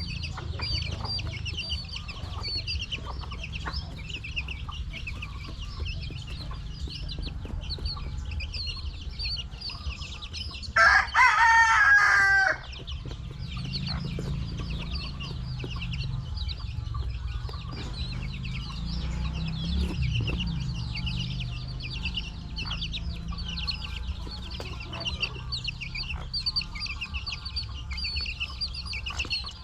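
A flock of chickens calling, with many small high chirps going on throughout. A rooster crows once, loudly, about eleven seconds in, for a second and a half.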